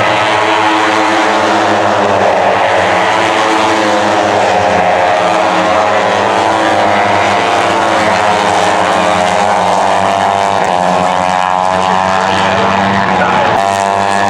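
Racing superbike engines at high revs, several bikes together, their pitch rising and falling as they accelerate and change gear. The sound changes abruptly near the end.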